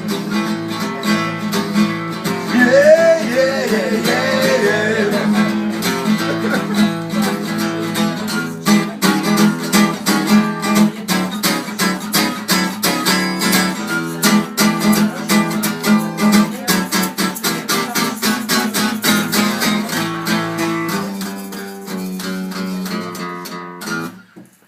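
Acoustic guitar strummed in an instrumental break between sung verses, with a short sung phrase a few seconds in. The strumming gets dense and rapid through the middle, then drops away sharply just before the end.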